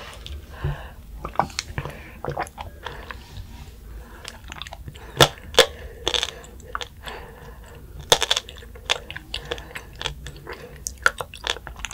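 Close-up chewing with crisp little crunches and clicks: passion fruit seeds and konjac pearls from a passion fruit konjac bubble tea being chewed. A few crunches in the middle are much louder and sharper.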